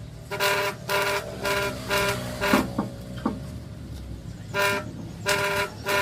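A horn sounding a run of short toots on one steady pitch, about two or three a second, then falling silent for a couple of seconds before the toots start again near the end.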